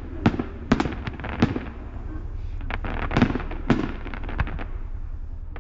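Fireworks going off together: a rapid, irregular string of sharp bangs and crackles over a low steady rumble.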